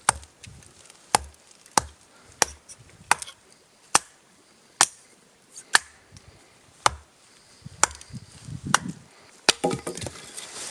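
Wood being chopped: about ten sharp, separate blows, roughly one a second, with some rustling and crunching of wood near the end.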